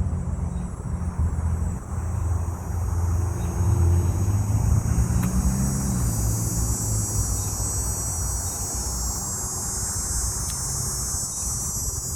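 Low engine rumble that swells, peaks around the middle and eases off, with a steady high hiss coming up in the second half.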